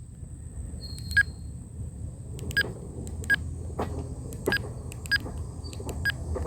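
A handheld radio scanner's keypad beeping as buttons are pressed to enter frequency mode: about eight short beeps at uneven intervals, starting about a second in, over a steady low rumble.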